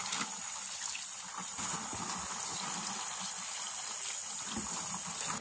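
Water spraying and splashing in a steady hiss, washing dirt and sediment off a dismantled washing machine's parts.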